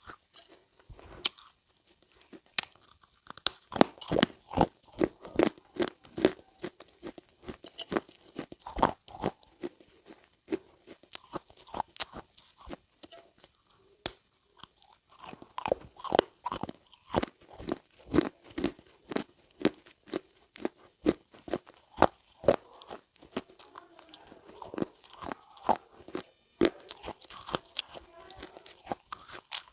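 Crunchy food being chewed close to the microphone: runs of short crunches, about two or three a second, broken by brief pauses.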